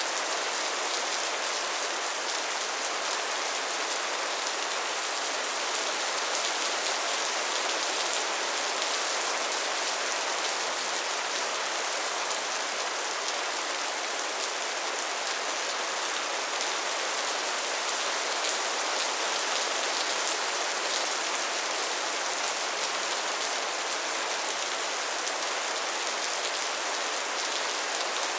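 Steady, soft rain falling, an even hiss with fine drop patter throughout.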